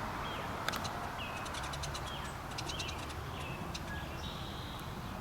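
A bird calling over and over with short chirps, along with scattered sharp clicks and a steady low rumble.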